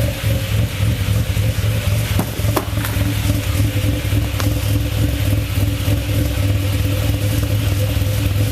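Chevrolet Cavalier engine idling steadily just after a cold start, running rich on old gas after sitting for months; it sounds dirty. A few faint clicks are heard a couple of seconds in.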